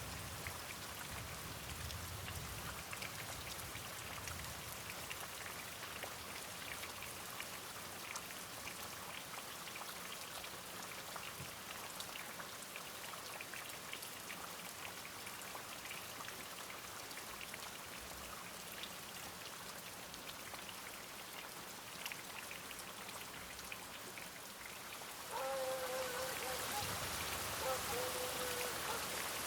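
Steady rain with a fine patter of drops hitting a surface. Near the end the hiss steps up louder, and a wavering pitched tone sounds twice.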